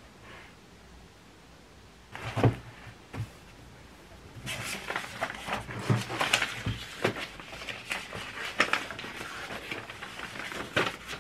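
Objects being handled indoors: two sharp knocks, then a busy stretch of clicks, knocks and rustling.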